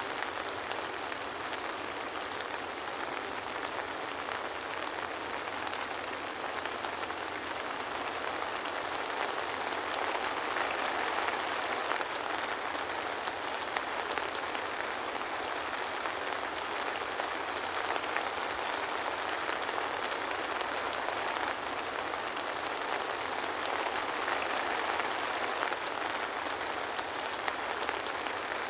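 Steady soft rain falling, an even patter of drops with no thunder.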